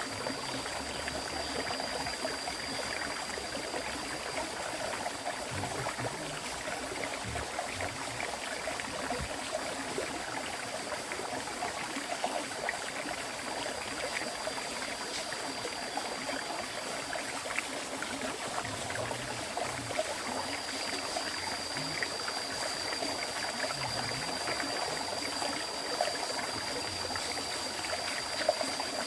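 River water flowing steadily, a continuous babble of running water. A faint steady high whine sits above it, dropping out for a few seconds just past the middle.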